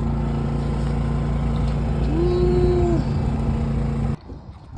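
Food truck's generator running with a steady low hum, with a short pitched hum that rises, holds and falls about two seconds in; the machine hum cuts off suddenly near the end.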